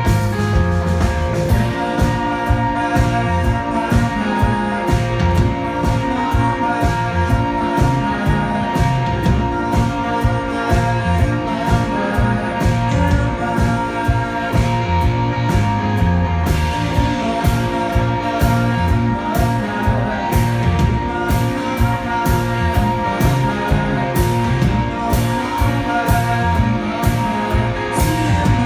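Live rock band playing an instrumental passage: sustained guitar tones over a steady drum beat.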